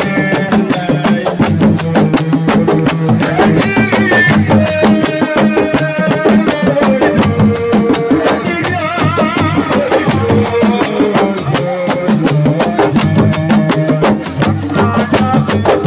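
Live Senegalese assiko music: fast, dense drumming with a wavering melody line over the beat.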